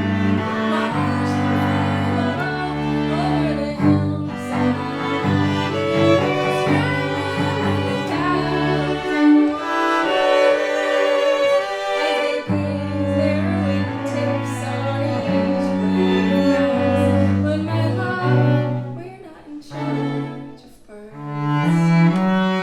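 Music: an instrumental passage on bowed strings, the cello prominent with long held low notes under higher moving lines. It thins out briefly near the end.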